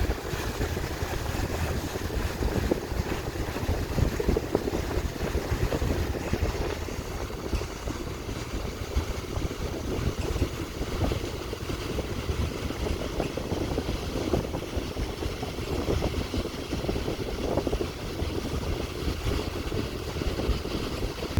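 Fast passenger boat Express Bahari 88 running under way: a steady engine drone mixed with the rush of water and wind.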